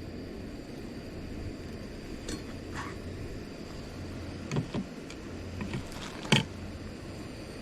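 Steady low mechanical hum with a faint high whine, broken by a few short knocks or clicks in the second half, the loudest about six seconds in.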